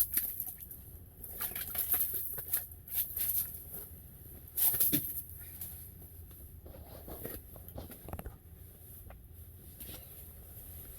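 Irregular taps, scrapes and rustles of a small, just-caught pike being handled and unhooked, busiest in the first five seconds and then quieter.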